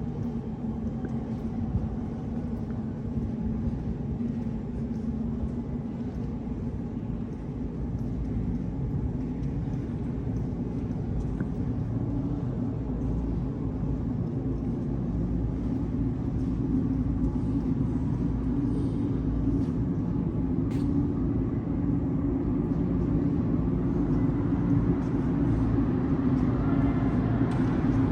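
Low, steady vehicle rumble that grows gradually louder through the second half.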